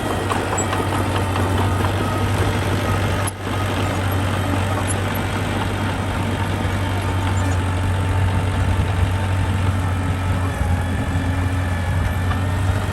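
A heavy construction machine's diesel engine running steadily with a low hum. The sound cuts out for an instant about three seconds in.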